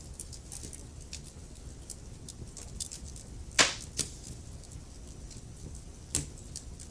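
Wood fire burning in a fireplace, with scattered crackles from the logs and a few louder pops, the loudest about three and a half seconds in, over a low steady rumble of the flames.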